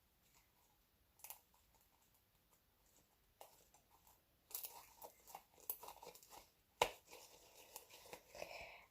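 Homemade glue slime being mixed as contact lens solution is worked into it: faint, irregular sticky crackling and tearing sounds that pick up about three and a half seconds in, with a sharper click near seven seconds.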